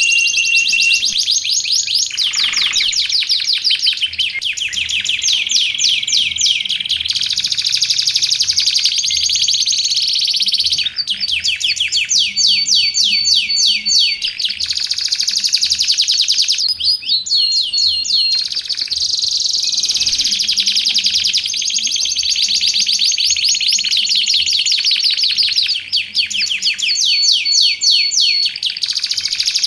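Domestic canary singing continuously in long runs of rapid trills and rolls, with several short held whistled notes mixed in.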